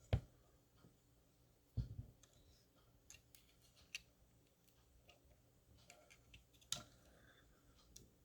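A few faint, scattered clicks and taps from handling a small die-cast model car, over quiet room tone.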